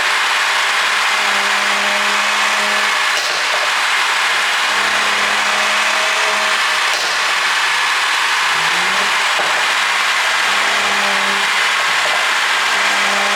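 Mercedes-Benz CLS450 4Matic driving at a steady pace: a constant rush of road and wind noise over a low engine hum that fades in and out, dipping and rising once about two thirds of the way through.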